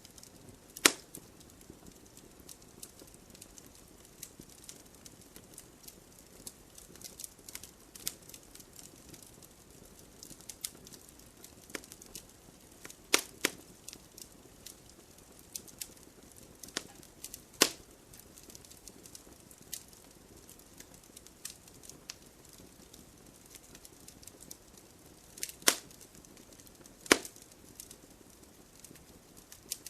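Wood fire crackling: a low steady hiss broken by scattered sharp pops and snaps of burning wood, a few of them much louder than the rest.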